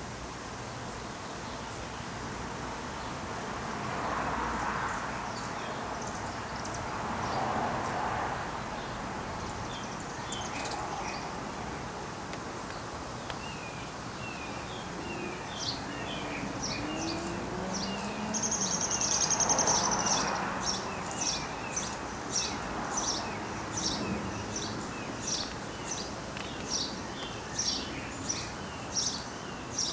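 Birds calling outdoors: from about halfway, a bird repeats a short high chirp a little over once a second, with a brief buzzy high note among them. Underneath is a steady background hiss with a few slow, soft swells.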